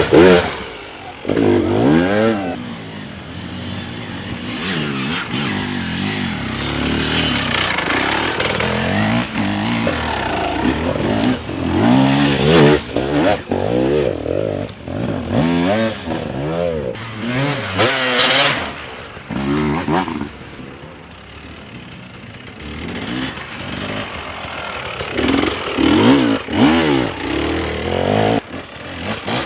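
Dirt bike engines revving hard and dropping back over and over, the pitch swinging up and down, with more than one bike at times, as riders work their bikes through a hard enduro section. It eases off for a few seconds past the middle before revving up again.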